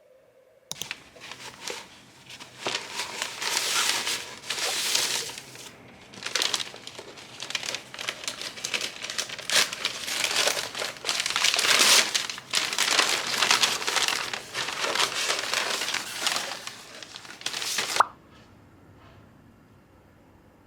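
Packaging crinkling and rustling as it is handled, starting about half a second in, swelling and easing, then stopping abruptly near the end with a sharp snap.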